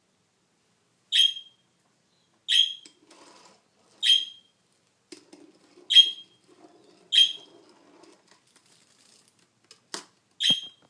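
Budgerigar giving short, sharp chirps, six alike, repeated every second or two with a longer gap near the end. A sharp click sounds just before the last chirp, and a faint low rumble runs through the middle.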